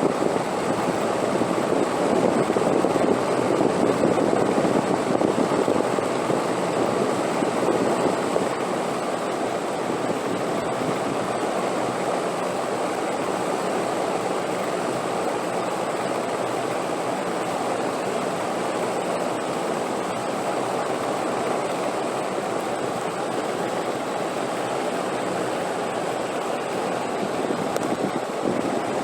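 Wind blowing steadily as a continuous rushing noise, with a stronger gust swelling a couple of seconds in and easing off about eight seconds in.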